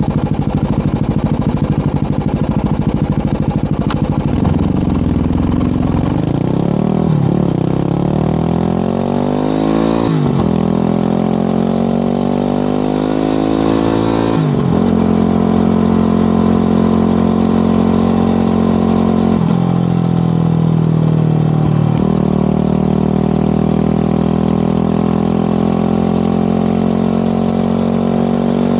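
Yamaha WR250R single-cylinder engine with an FMF PowerCore 4 exhaust, pulling away and accelerating through the gears. It runs steadily for the first few seconds, then its pitch climbs and falls back sharply at each of four upshifts.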